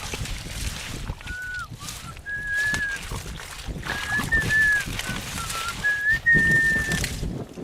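Clear whistling: a string of held notes with short slides between them, beginning about a second in and stopping shortly before the end.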